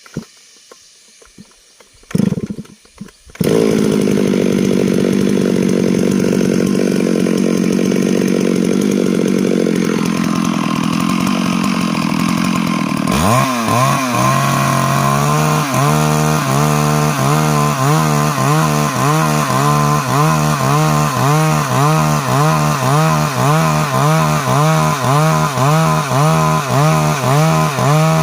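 Stihl MS 382 two-stroke chainsaw engine. A few short knocks come first, then about three and a half seconds in the saw starts running loudly and steadily. From about halfway through, the engine note rises and dips in a quick, regular rhythm, about one and a half times a second.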